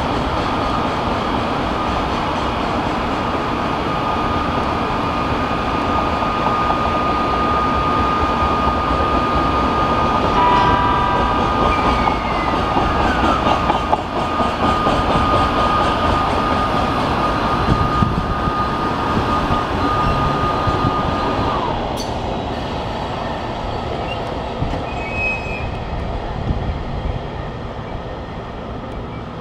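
Container freight train rolling past: wagon wheels running over the rails, with a steady high squeal that stops abruptly about 22 seconds in. The rolling then dies down as the train clears.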